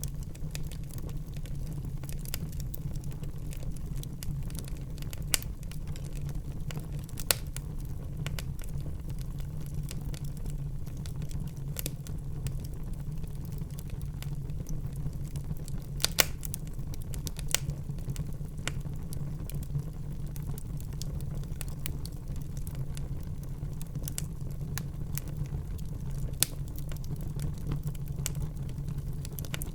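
A fire burning in a fireplace, crackling: a steady low rumble of flames with scattered sharp pops and snaps, a few louder ones standing out, the sharpest about halfway through.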